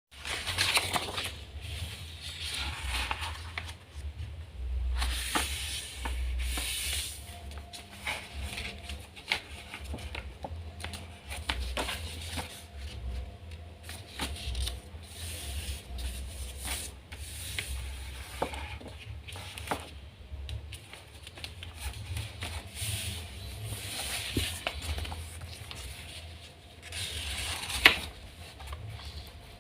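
A square sheet of origami paper being handled and folded: irregular bursts of rustling and crinkling, with short sharp clicks as folds are pressed and creased, and one louder snap near the end.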